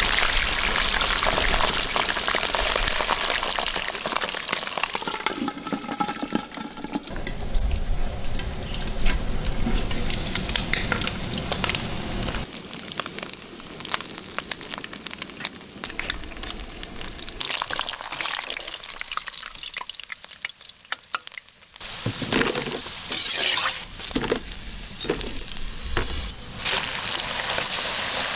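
Chicken feet frying in hot oil, a dense sizzle with sharp clicks and scrapes from stirring. It is loudest at the start, dies down about two-thirds through, then comes back in bursts.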